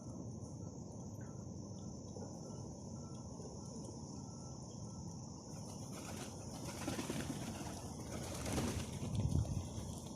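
Birds with wings flapping in several bursts in the second half, over a steady high thin drone and a low rumble.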